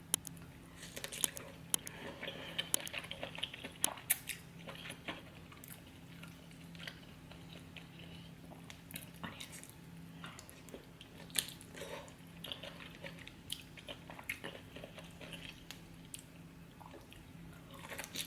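Close-miked eating of saucy spicy king crab: wet chewing and biting with irregular sharp clicks and smacks, busiest in the first few seconds.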